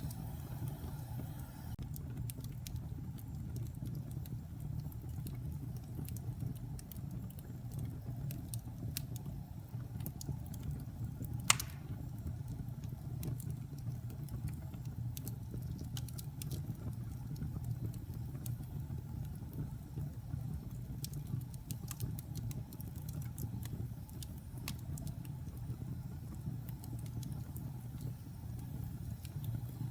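Wood-burning fire crackling: scattered small crackles over a steady low rumble, with one loud sharp pop a little before the middle.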